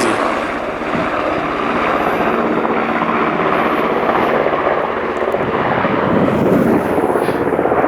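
Rescue helicopter flying overhead: a loud, steady rotor and engine drone with a faint steady hum.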